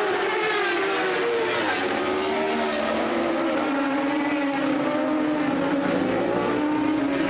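Racing motorcycle engines running at high revs, a steady high-pitched whine whose pitch wavers and then eases gradually lower.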